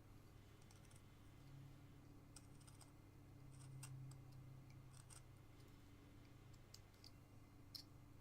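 Faint, irregular small clicks and snicks of a carving knife cutting into basswood, over a steady low hum.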